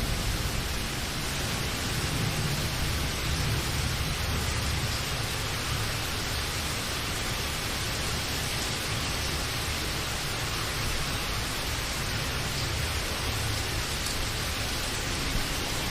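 Steady rain, an even hiss, with a low rumble underneath that is strongest in the first few seconds.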